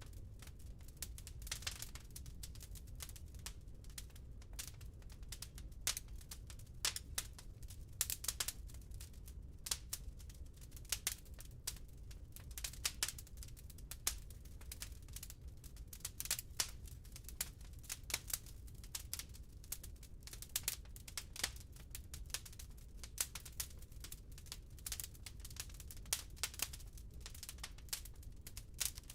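Wood fire crackling in a fireplace: irregular sharp pops and snaps of burning logs, several a second, over a low steady rumble of the flames.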